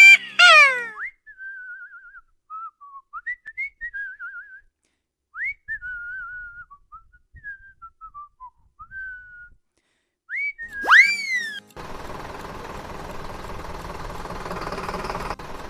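A person whistling a short, wandering tune with a warble in the notes, in broken phrases. It is framed by rising cartoon whoop effects at the start and about ten seconds in, and a steady buzzing noise fills the last few seconds.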